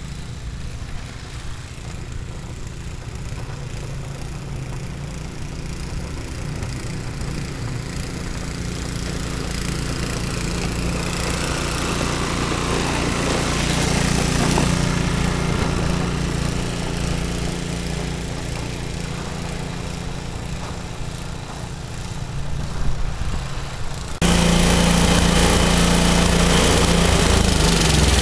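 Ariens two-stage snowblower's 5 HP Tecumseh single-cylinder engine running steadily under load while throwing snow. It grows louder toward the middle, jumps suddenly louder about four seconds before the end, and its pitch drops right at the end.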